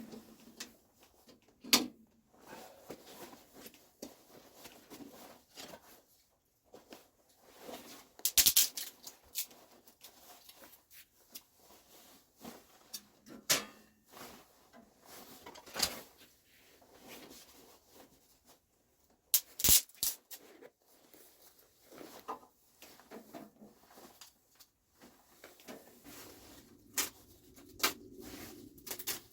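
Irregular knocks, clicks and clatter of gear being handled, with quieter rustling between them; two sharp knocks, about eight seconds in and again near twenty seconds, are the loudest.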